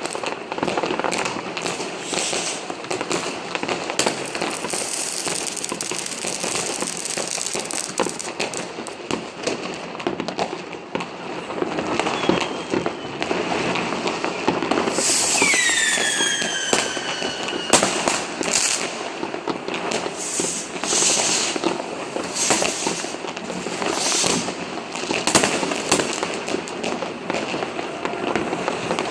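New Year's fireworks and firecrackers going off all around in a continuous barrage of bangs and crackling. About halfway through, a whistling firework gives a loud falling whistle.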